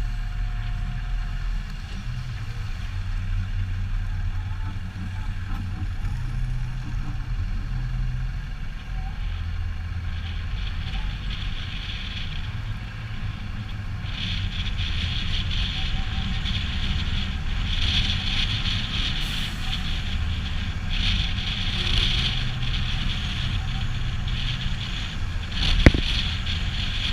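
Heavy truck's diesel engine running, its pitch stepping up and down as the revs change. From about ten seconds in a higher hissing noise joins it, and there is a sharp click near the end.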